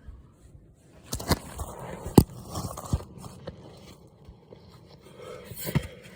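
Hiking footsteps scraping and crunching, with a few irregular sharp knocks; the loudest knock comes about two seconds in.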